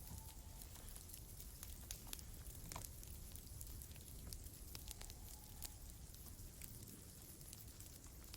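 Campfire crackling faintly, with scattered sharp pops at irregular intervals over a low steady rumble.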